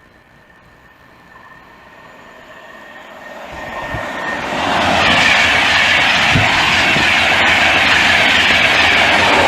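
An LNER InterCity 225 express, with a Class 91 electric locomotive at the rear, passes through the station at speed. Its sound swells over about five seconds into a loud, steady rush of wheels on rail and air, with a couple of low thumps from the wheels.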